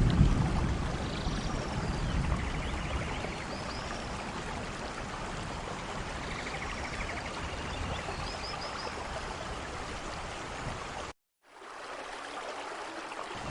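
Steady heavy rain, an even rush, with a low thunder rumble fading out at the start and a few faint high chirps in the background. The sound drops out for a moment near the end, then the rain comes back quieter.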